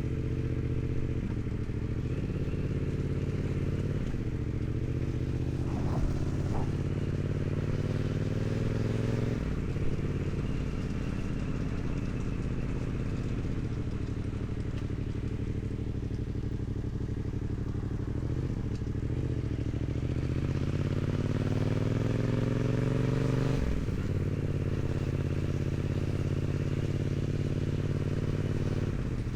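Yamaha MT-07's 689 cc parallel-twin engine running through its stock exhaust under way. The revs climb from about six seconds in and drop at a gear change near ten seconds. They build again from about twenty seconds and drop at another gear change near twenty-four seconds.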